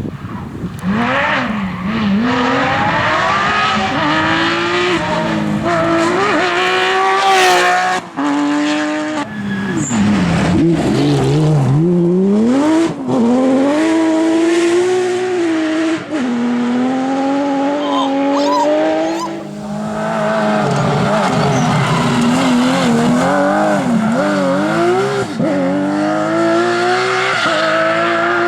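Porsche 911 GT3 rally car's naturally aspirated flat-six engine revving hard on a rally stage, its pitch climbing and falling again and again as it accelerates, changes gear and lifts for corners. There are short breaks in the sound around a third and halfway through.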